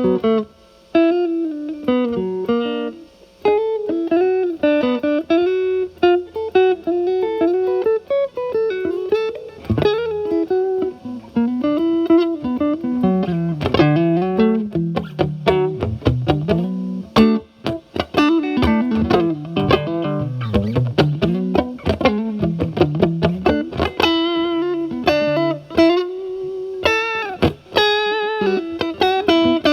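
Electric guitar: a Fender Stratocaster with alnico single-coils played through a Paul Cochrane Timmy transparent overdrive pedal, gain at 9, into a Marshall Valvestate amp's clean channel. It plays improvised single-note lead lines with string bends, and a few chords near the end.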